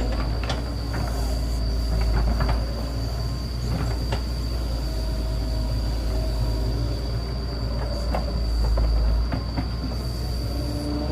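Excavator working: the diesel engine runs with a steady low rumble, and scattered metal knocks and squeaks come from the tracks and bucket.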